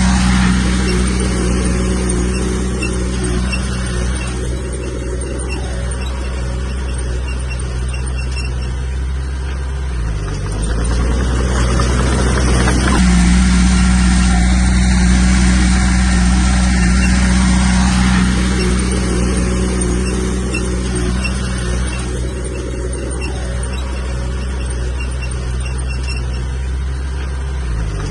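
Komatsu bulldozer's diesel engine running steadily under work. Its pitch dips briefly about ten seconds in and again near the end, and it is louder for a stretch in the middle.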